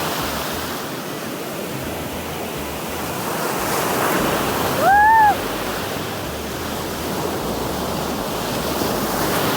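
Ocean surf washing in on the shore, a steady rush of waves. About halfway through, a single short high-pitched squeal rises and falls, the loudest moment.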